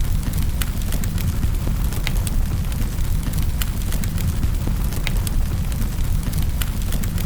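Wood fire burning in a fireplace: sharp crackles and pops, about one or two a second, over a steady low rumble.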